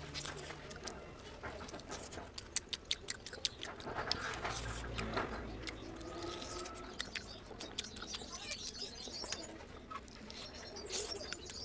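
Close-up eating noises: wet chewing and lip-smacking, a quick run of sharp mouth clicks, thickest in the first half.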